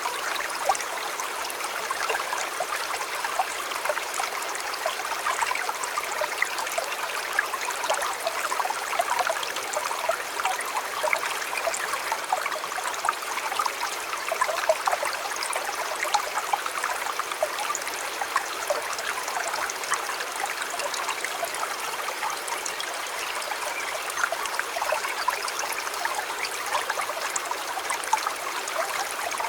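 Shallow river flowing over stones: a steady babble and trickle of water with many small splashes.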